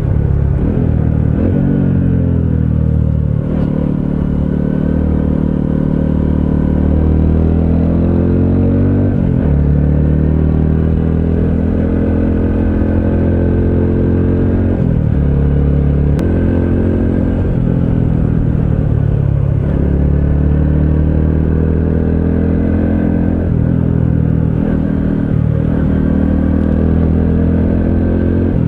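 Honda CT125 Hunter Cub's 125 cc single-cylinder engine running under way. Its pitch climbs and then drops sharply several times as the bike accelerates and comes off the throttle.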